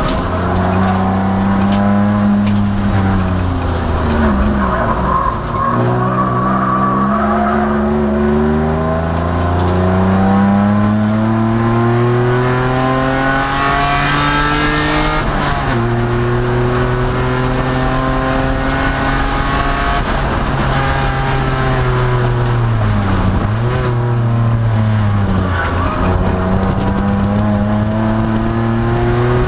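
2002 Nissan Maxima's V6 engine under racing load, the revs climbing through the gears and dropping at shifts and braking. The pitch rises steadily, falls sharply about halfway through, holds steady, then dips twice near the end before climbing again.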